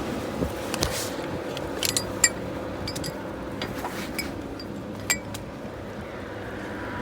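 Irregular light clicks and clinks over a low steady drone inside a moving truck cab.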